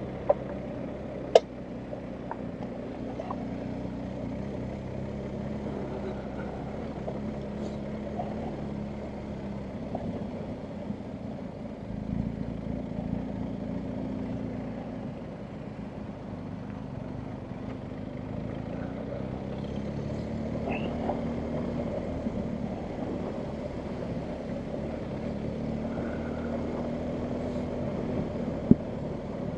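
BMW R1250GS Adventure's boxer-twin engine running at low revs over rough ground, its pitch rising and falling as the throttle opens and closes. A few sharp knocks, near the start and near the end.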